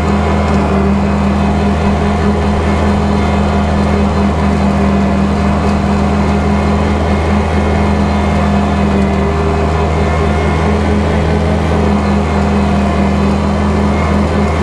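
Kubota tractor's diesel engine running steadily at working speed, driving a bush hog rotary cutter: a loud, even low drone.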